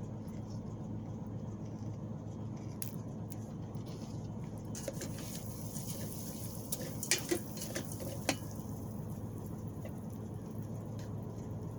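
Rice and broccolini cooking in butter in an Instant Pot, a soft sizzle, with a few clicks of a utensil against the pot a little past halfway, over a steady low hum.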